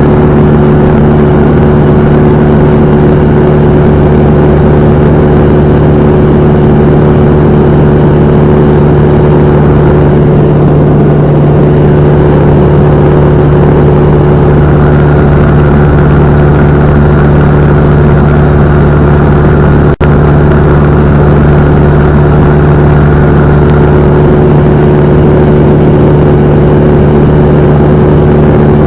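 Cessna 172M's four-cylinder Lycoming O-320 engine and propeller droning steadily at constant power, with a momentary dip in the sound about twenty seconds in.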